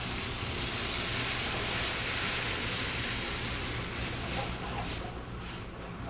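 Light cream poured into a hot sauté pan of browned chicken and butter, hissing and sizzling; the sizzle eases off over the last two seconds.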